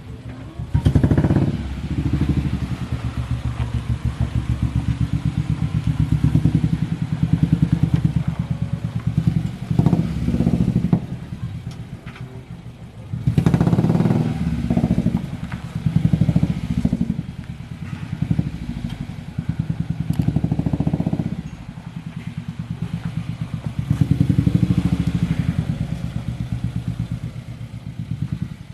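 Suzuki APV Mega Carry pickup's four-cylinder engine through an aftermarket racing exhaust with a 4-3-1 header and free-flowing silencer, idling with a throbbing pulse and revved in repeated blips, about seven times, each rising and falling back to idle.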